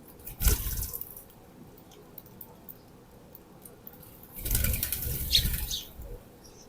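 Birds' wings flapping in two bursts: a short flurry about half a second in and a longer one of about a second and a half about four seconds in.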